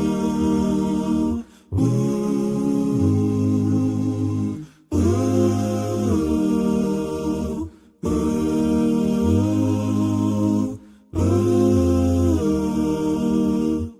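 Music: a cappella vocal harmony humming long held chords, each about three seconds, with short breaks between them.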